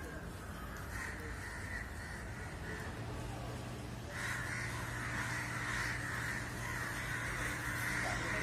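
Crows cawing continuously, getting louder about four seconds in, over a steady low hum that starts about three seconds in.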